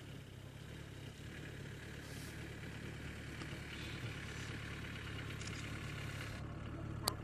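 A vehicle engine idling with a steady low hum that grows slightly louder, and a single sharp click near the end.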